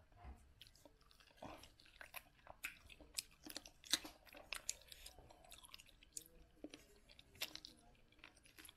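Close-up chewing of a mouthful of chicken and rice, faint, with irregular small crunches and clicks. The loudest crunch comes about four seconds in.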